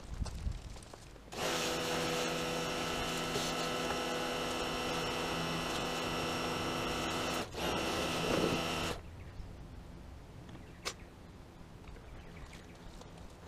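A small electric power-tool motor, as used for power scrubbing, runs steadily with a fixed-pitch hum. It starts abruptly a little over a second in, dips once briefly and cuts off about two-thirds of the way through, followed by one sharp click.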